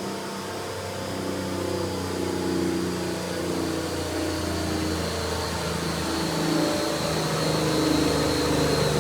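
Twin-turbo BMW M52 inline-six in an E36 running and being blipped, loud, its pitch stepping up and down and the sound building toward the end. A faint high whine runs above the engine note and slowly falls in pitch.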